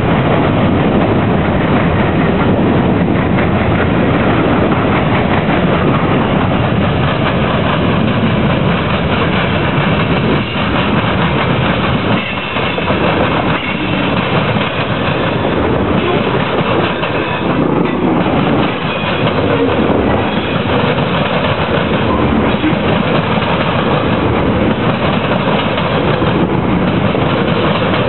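Freight train cars, open-top cars and then tank cars, rolling past at close range. Their steel wheels clatter over the diamond crossings.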